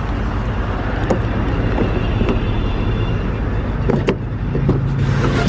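An SUV's engine idling with a steady low rumble close by. There is a sharp click about a second in and another about four seconds in, the second as the car's door handle is pulled.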